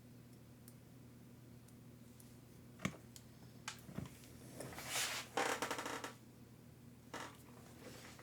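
Small parts and tools being handled on a workbench: a few sharp clicks and, about five seconds in, a short rattle, over a steady low electrical hum.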